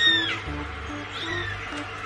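Background music with a cat meowing twice: a clear meow at the start and a fainter one about a second and a half in.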